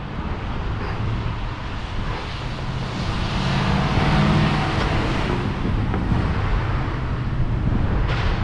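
A motor vehicle passing, its engine swelling and fading over a few seconds, over steady wind noise on the microphone.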